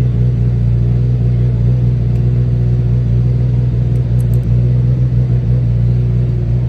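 Motorcycle engine running at steady, unchanging revs: a loud, even drone.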